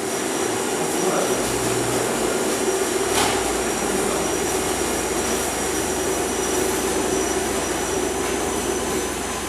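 Loud, steady whirring machine noise with a low hum and a faint high whine, starting abruptly and running evenly.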